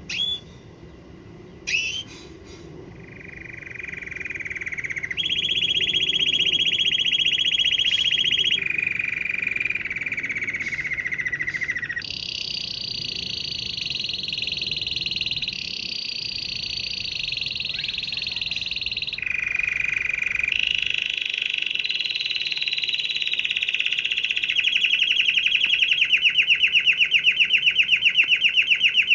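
Domestic canary singing a long song of rolling trills, each held for a few seconds before it jumps to a new pitch. Near the end it moves into a slower, pulsing trill.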